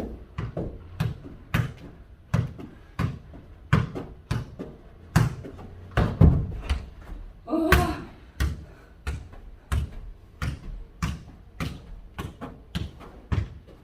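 A football being kicked back and forth and bouncing off the floor in a fast foot-volleyball rally, a sharp thud every half second or so, in a small room. A brief shout about halfway through.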